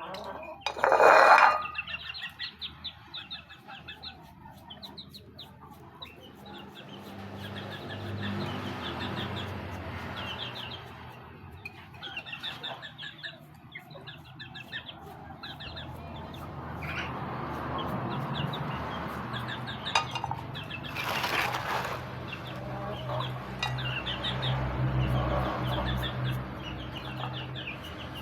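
Chickens clucking repeatedly, with a short loud squawk about a second in and a brief loud burst of noise about three-quarters of the way through.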